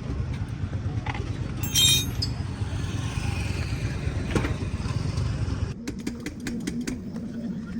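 A motor vehicle engine running with a steady low rumble and a brief sharp, high-pitched burst about two seconds in. About six seconds in the rumble cuts off abruptly, leaving a faint hum and light clicks.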